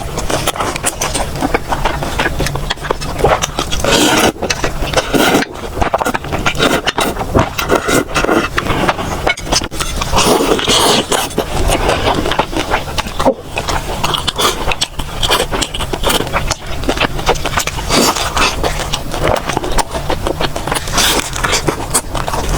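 Close-miked eating sounds: continuous wet chewing and crunching with many small clicks and smacks.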